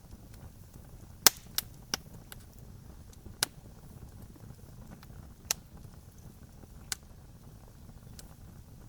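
Campfire crackling: sharp pops and snaps at irregular intervals, about eight in all, over a low steady rumble. The loudest pop comes about a second in.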